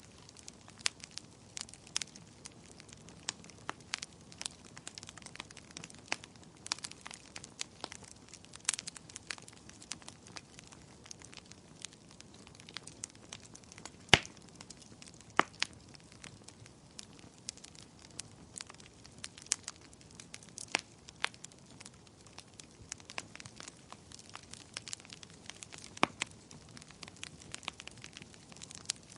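Wood fire crackling in a fireplace, with irregular sharp pops over a soft low rumble; one pop about halfway through is louder than the rest.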